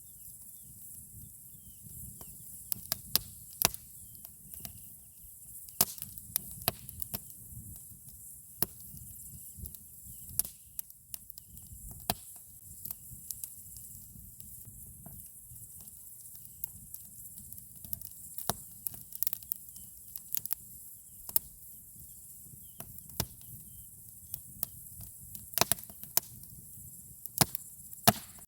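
Wood campfire crackling, with irregular sharp pops and snaps over a low steady rumble of the burning fire.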